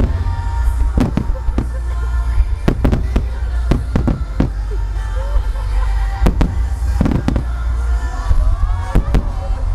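Fireworks display going off: a rapid, irregular series of sharp bangs from bursting shells and ground-fired mines over a continuous low rumble. Music plays along with it.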